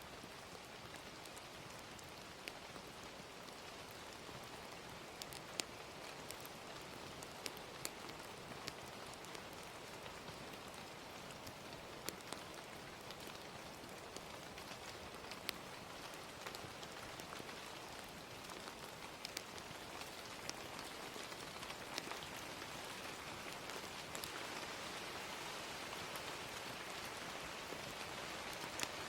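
Gentle, steady rain ambience mixed with a crackling fire, with scattered sharp pops and snaps standing out over the rain.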